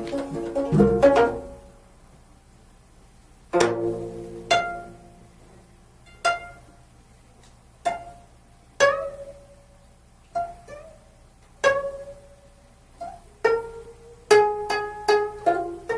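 Solo gayageum, the Korean plucked zither, playing a quick run of notes that ends about a second and a half in, then a pause and sparse single plucked notes, each left to ring and die away, a couple of them bent in pitch. Near the end the notes come faster in a short cluster.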